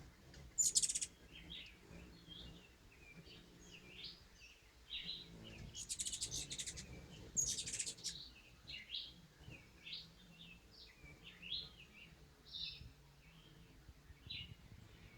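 Birds calling: many short high chirps throughout, with three louder, rapid chattering bursts, about a second in and twice more a little past the middle.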